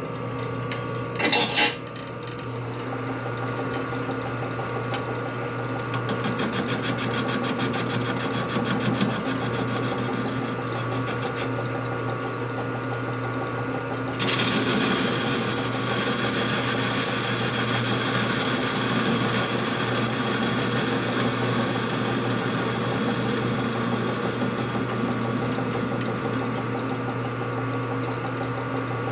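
Metal lathe running, its cutting tool facing off the rough end of a hot-rolled steel bar. A sharp clack comes about a second and a half in, and the cutting gets louder and harsher about halfway through.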